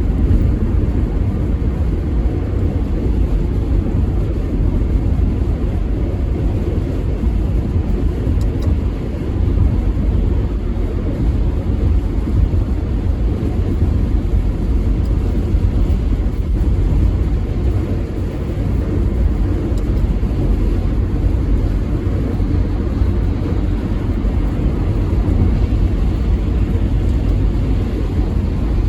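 Steady low rumble of a moving vehicle, road noise.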